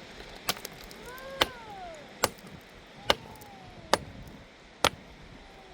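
Steady, rhythmic chopping with a hand tool: a sharp strike a little more often than once a second. Faint rising-and-falling pitched tones are heard between some of the strikes.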